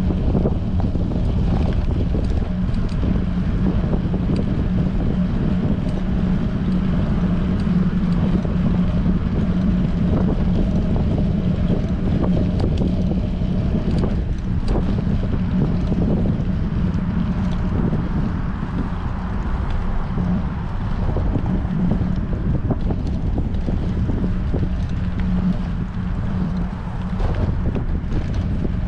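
Wind buffeting the microphone of a bicycle-mounted GoPro during a ride in strong wind, a steady rough rush with a low hum underneath.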